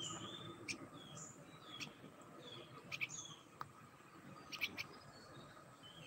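Small bird chirping: short, high calls that curve downward, mixed with sharp clicky chips, repeated about every second.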